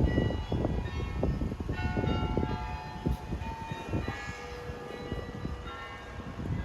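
Church bells ringing a run of many notes at different pitches, each struck and left to fade, over a steady low street rumble.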